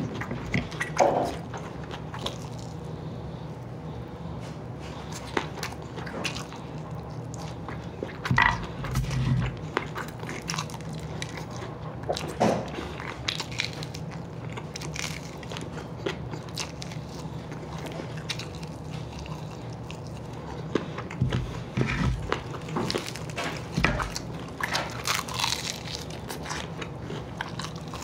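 Biting into and chewing crispy fried chicken wings: scattered crunches and wet mouth sounds, with a steady low hum underneath.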